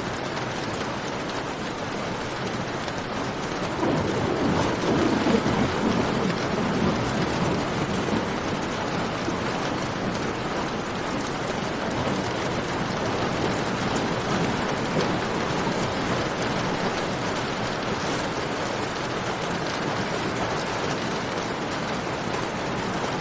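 Steady rain falling, mixed with the sharp crackle and pops of a campfire. A low rumble swells about four seconds in and fades over the next few seconds.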